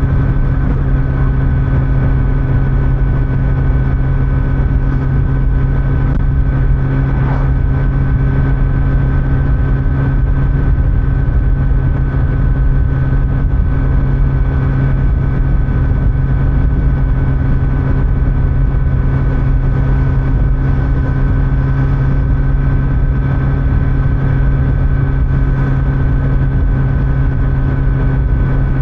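Kawasaki Z900's inline-four engine with stock exhaust running at a steady cruising speed, its pitch holding constant, with road noise underneath.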